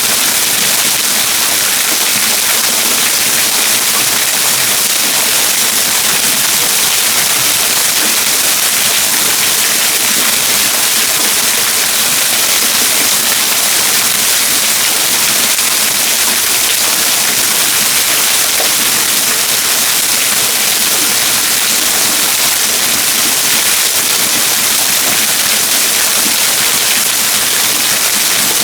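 Waterfall: a steady, loud rush of falling water with no change or break.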